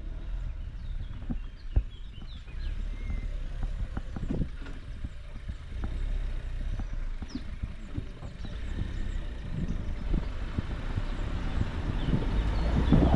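Low rumble of wind on the microphone with scattered irregular knocks and faint short chirps, growing louder near the end.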